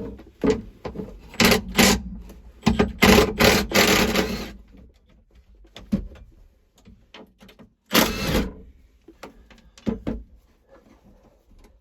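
Clunks and rattles of a tractor cab's floor cover being worked loose and shifted, a string of sudden knocks with a dense clatter about three to four seconds in and another loud knock about eight seconds in.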